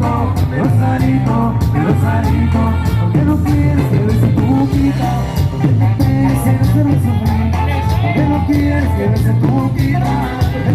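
Live norteño band playing a cumbia, with a singer over a strong bass line and steady dance beat.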